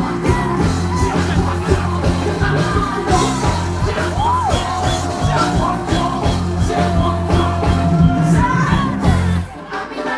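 Live band music with heavy bass and drums, and a voice that glides up into one long held note through the middle. The music drops out briefly near the end.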